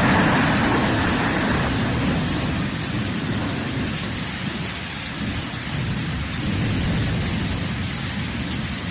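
Heavy rain pouring steadily onto banana plants, a dense hiss with a low, fluctuating rumble underneath.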